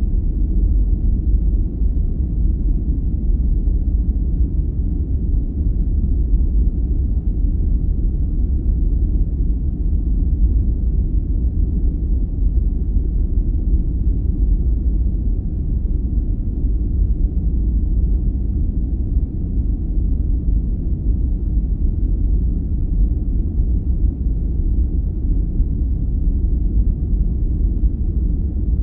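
Steady sleep-aid noise, a deep, even rumbling hiss with almost nothing high in it, running unchanged.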